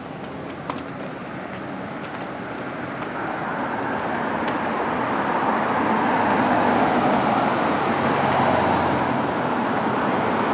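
Street traffic: a road vehicle's tyre and motor noise grows steadily louder over about six seconds as it approaches, then stays loud.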